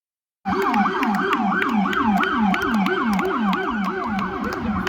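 Police car siren in its fast yelp, a rapid rise-and-fall tone repeating about three times a second, starting about half a second in.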